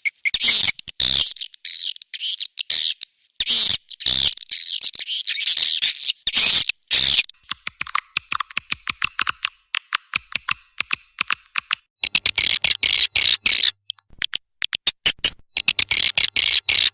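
Swiftlet calls: dense, high twittering chirps in chopped-up runs, with a stretch of rapid, evenly repeated clicks in the middle.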